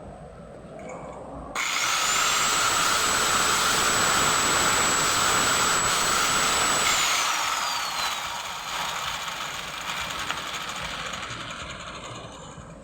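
A small power tool's motor starts suddenly with a rising whine, runs at a steady high pitch for about four seconds, then is switched off and winds down, its pitch falling as it fades.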